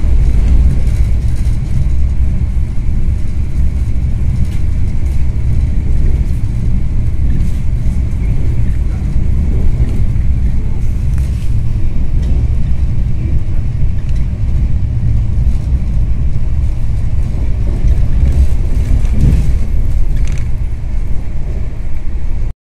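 Steady low rumble of a Shatabdi Express passenger coach running at speed, heard from inside the carriage, with occasional faint clicks.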